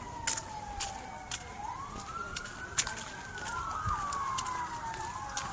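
Emergency-vehicle sirens wailing in slow rising and falling sweeps, two of them overlapping out of step. Scattered sharp clicks run through it.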